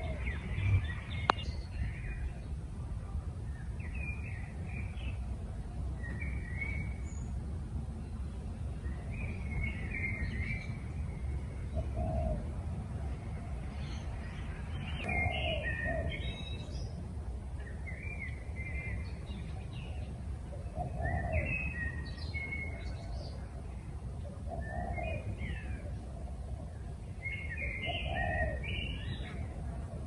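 Birds calling: short runs of chirps every couple of seconds, some with a lower call beneath them, over a steady low rumble. A single sharp click about a second in.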